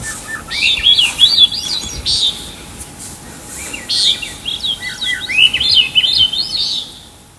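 A songbird singing two quick, warbling phrases of rising and falling notes with a short pause between them; the song fades out near the end.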